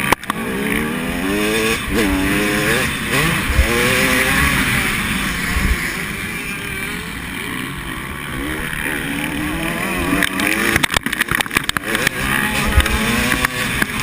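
Motocross motorcycles racing on the track, their engines revving up and down again and again as the riders work the throttle. A cluster of sharp crackles comes near the end.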